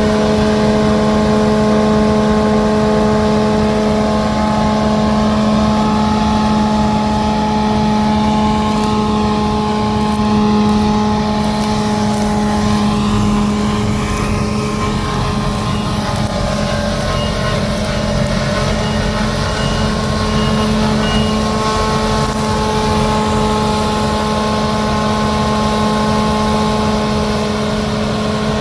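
Heavy harvest machinery running steadily: a big diesel engine's constant drone over a bed of mechanical noise. The pitch wavers briefly about halfway through, then settles.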